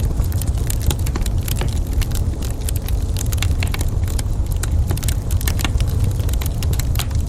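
Wood fire burning in a fireplace, crackling with many sharp pops and snaps over a steady low rumble.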